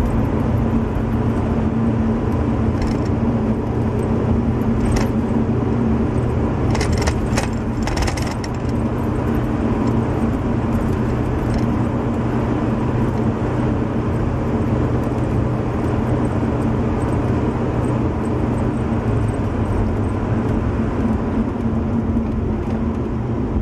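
Cabin sound of a 1974 Chevy Nova with a carbureted V8 cruising at 30–35 mph on light throttle: a steady engine drone mixed with road noise. A few light rattles come through about seven to eight seconds in.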